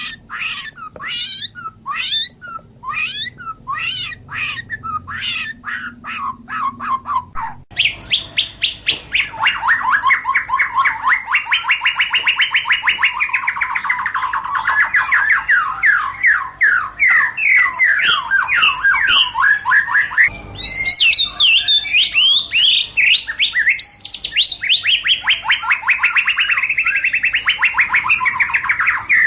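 White-rumped shama singing: a string of short, quick chirps, then about eight seconds in an abrupt change to a dense, fast run of rapidly repeated notes that keeps going.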